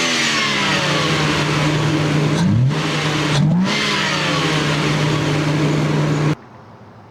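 Stock Lexus GS300's 2JZ straight-six engine and exhaust running at steady revs, the note dipping briefly twice and climbing straight back. Near the end the sound cuts off abruptly.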